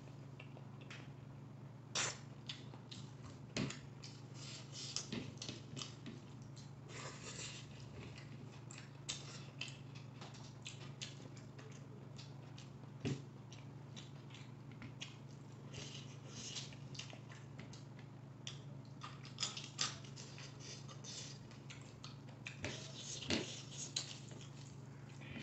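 Close-miked chewing, slurping and lip-smacking of someone eating soft noodles by hand, with irregular wet clicks and smacks. A steady low hum runs underneath.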